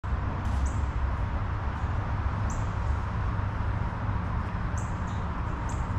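A steady low rumble with several short, high bird-like chirps spread through it.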